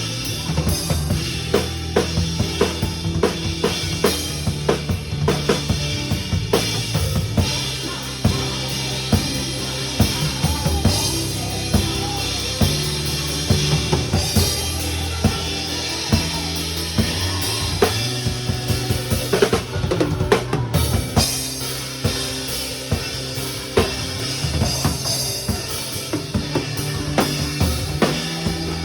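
Drum kit played along with a worship-song backing track: a steady run of bass drum and snare hits with rimshots, over sustained bass and keyboard notes.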